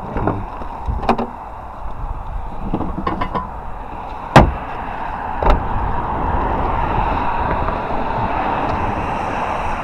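Several short knocks and clicks, then a sharp, loud bang about four and a half seconds in and a smaller one a second later, followed by a steady hum.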